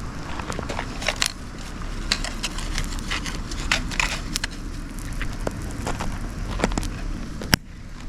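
Wood bonfire of dried shiitake logs and fig branches crackling, with irregular sharp pops and one loud snap near the end over a steady low rumble.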